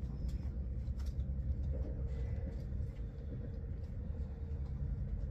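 Passenger train running, heard from inside the carriage: a steady low rumble with a steady hum above it and a few light clicks.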